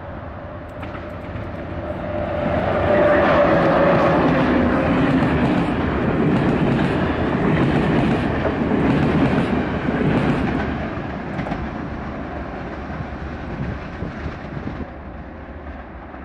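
A train passing by, its rumble swelling over the first few seconds and then slowly fading, with a regular clicking of the wheels over the rail joints while it is closest.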